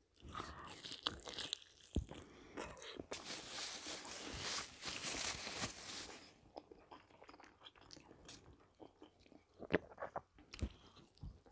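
Close-miked chewing and biting of a zucchini fritter: soft crunching and wet mouth sounds, dense at first, then thinning out to scattered small clicks, with a couple of sharper knocks near the end.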